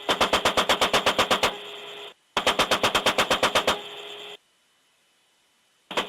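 AH-64 Apache's 30 mm chain gun firing in bursts, about ten rounds a second. There is a burst of about a second and a half, then a second similar burst after a short gap, and a third begins near the end.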